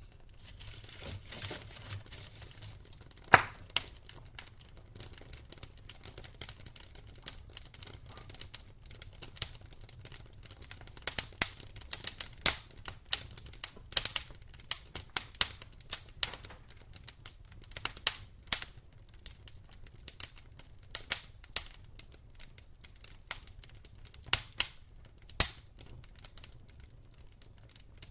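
Campfire crackling: irregular sharp pops and snaps of burning wood over a low hiss, with one louder pop about three seconds in.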